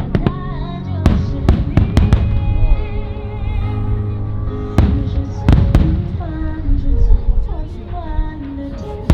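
Fireworks bursting in scattered sharp bangs, a few in the first two seconds and a louder cluster around five to six seconds in, over melodic music that plays throughout.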